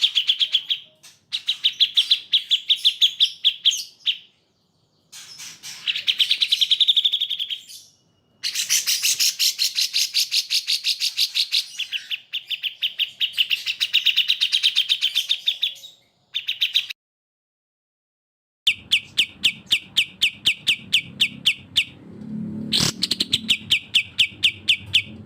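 Songbird song from a bird-training master recording: fast runs of sharp repeated chirping notes, about ten a second, in long bursts. The song is cut off abruptly into silence a few times, most noticeably for about two seconds near two-thirds of the way in. After that gap a low background rumble sits under the chirping.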